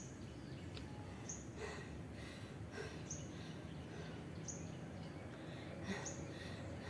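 A bird in the surrounding forest repeating a short, high call about every second and a half, over a faint steady outdoor background.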